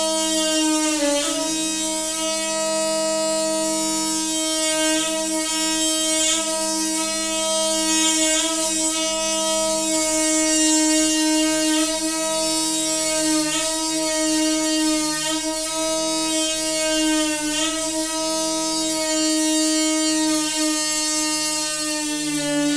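Noisy water pipe humming: a loud, steady, horn-like drone with many overtones, its pitch briefly sagging and recovering about a second in and again at the end.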